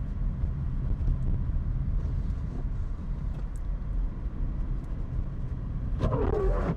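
Steady low rumble of a Subaru's engine and tyres on a snowy road, heard from inside the cabin. About six seconds in comes a brief wavering squeak from the windshield wipers, which are squeaky across the glass.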